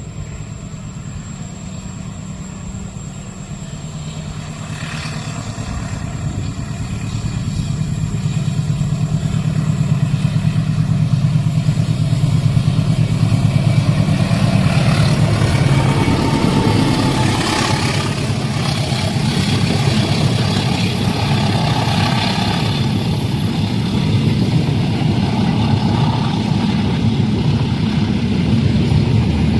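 Heavy engine noise that builds over about ten seconds and then holds steady and loud.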